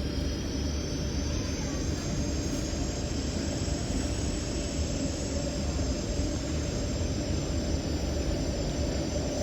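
Rotem EMU metro train running, heard from inside the car: a steady low rumble with a high whine from the traction motors that rises a little in the first second or so, then holds level.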